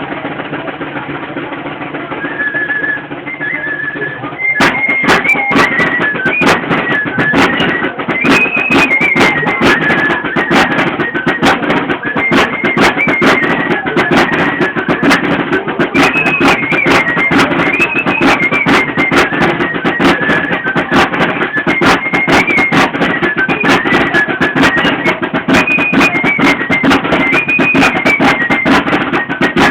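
Traditional torito music on a high flute and a drum. The flute plays a lilting, repeating tune, and the drum comes in with rapid beats about four and a half seconds in.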